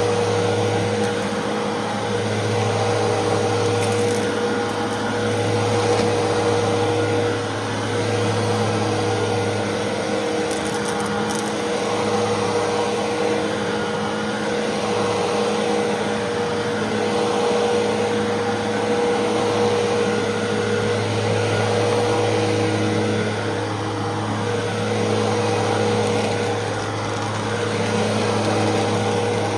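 Fantom Fury 10-amp vacuum cleaner running steadily with a constant motor whine, its loudness swelling and dipping gently every few seconds.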